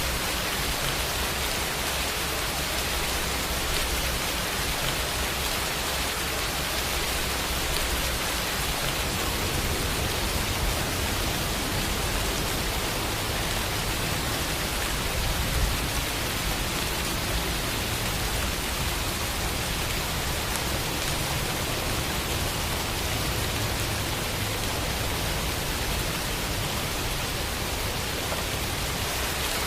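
Steady, heavy rain falling, a dense even hiss of drops with no other sounds.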